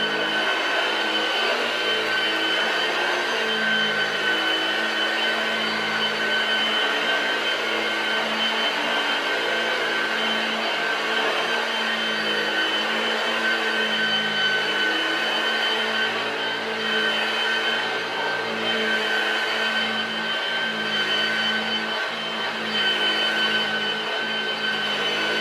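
Hoover Junior model 1348 upright vacuum cleaner's motor running steadily, with a constant high whine over the rush of air.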